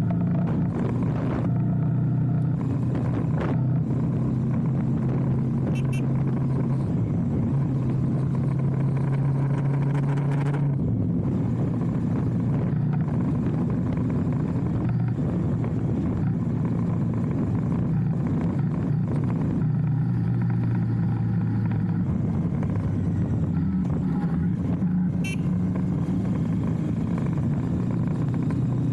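Motorcycle engine running steadily under way, its note shifting a couple of times as speed or gear changes, with road and wind noise.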